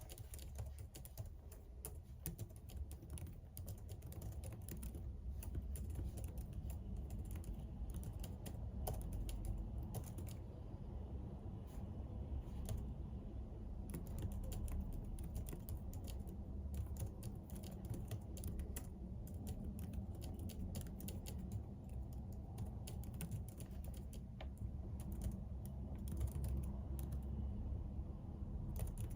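Typing on a computer keyboard: a continuous, uneven run of key clicks over a low background rumble.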